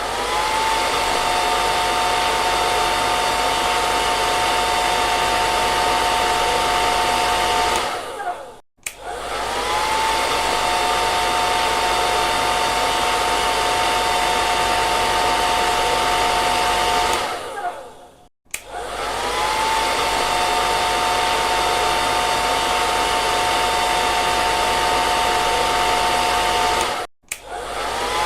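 Hair dryer blowing with a steady motor whine over the rush of air. It cuts out briefly about every nine seconds, three times in all, and each time starts up again with a short rising whine as the motor spins up.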